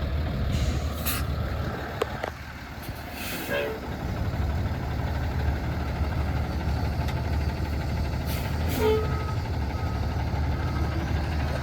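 Peterbilt 337 truck's PACCAR PX-7 6.7-litre diesel idling with a steady low rumble. A few short hisses of air and a sharp click about two seconds in are heard over it.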